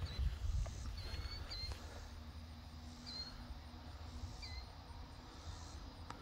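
Short, high bird chirps repeating every half-second to a second or so, over a low rumble on the microphone that is loudest at the start, with a few soft clicks near the start.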